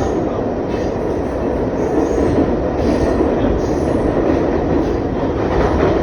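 R62A subway car running steadily through the tunnel: a continuous loud rumble of wheels on rail and running gear, with a few faint clicks over the top.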